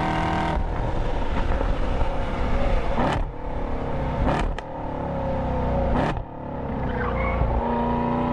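Car engine running hard under the intro, its pitch sliding down between three sharp breaks spaced about a second and a half apart.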